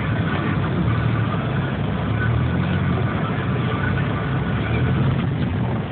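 Car engine running with steady engine hum and cabin noise, heard from inside the car.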